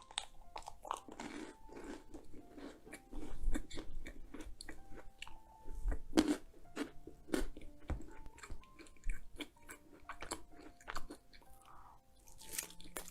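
Close-miked eating of a chocolate dessert: biting and chewing with many short, sharp crackles, a few louder bites standing out.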